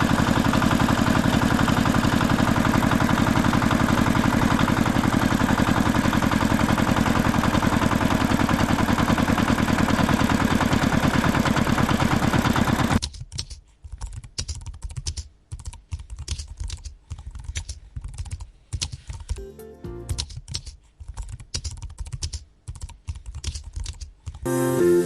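A tractor engine running steadily with a fast, even tick, cutting off suddenly about halfway through. Scattered short clicks and knocks follow, and music comes in near the end.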